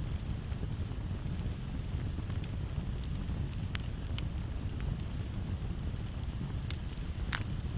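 Campfire crackling with frequent sharp pops, the loudest about seven seconds in, over a low steady rumble. Crickets trill steadily in the background.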